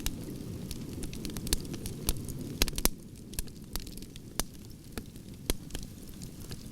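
Wood fire of burning logs crackling: a steady low rumble of flame under irregular sharp pops and snaps, with a brief flurry of louder pops a little before halfway.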